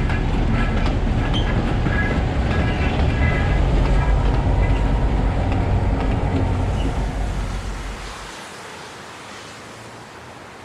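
A train passing close by: a loud rumble with short high-pitched squeaks that fades away about eight seconds in.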